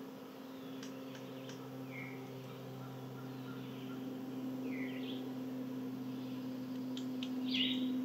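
Wild songbirds giving short chirping calls that slide down in pitch, three times, the loudest near the end, with a few faint ticks between them. A steady low hum runs underneath.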